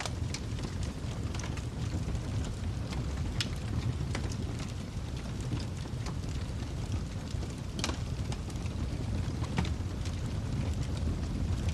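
Wood fire burning in a fireplace: a steady low rush of flames with irregular crackles and sharp pops, a few louder ones standing out.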